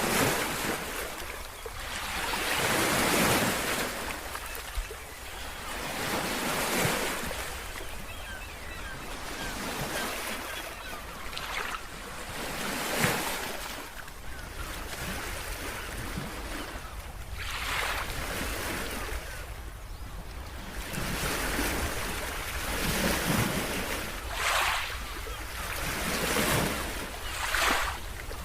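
Ocean waves breaking and washing on the shore, the surf swelling and falling back every few seconds over a steady low rumble.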